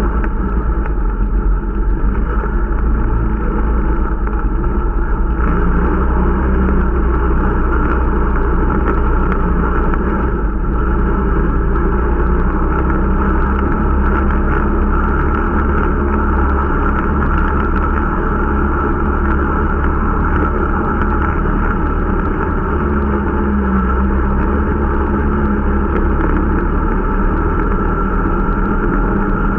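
Irbis Dingo T125 snowmobile's small 125 cc engine running steadily under way while the machine is being run in, with a deep rumble underneath that eases slightly near the end.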